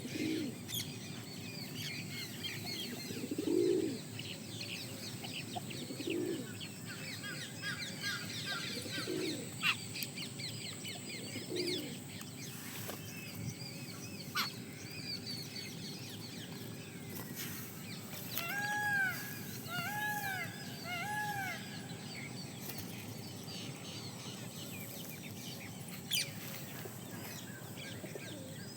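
Birds calling: low, rounded notes repeating every two to three seconds through the first half, mixed with many quick high chirps. About two-thirds of the way in come three arched calls in a row, and a few sharp clicks stand out, over a steady background hiss.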